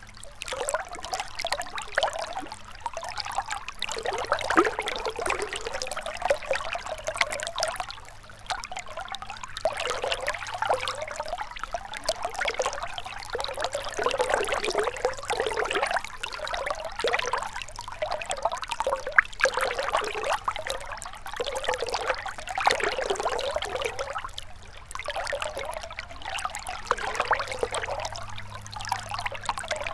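Gentle river water trickling and burbling over stones, a continuous rushing with small swells and brief lulls.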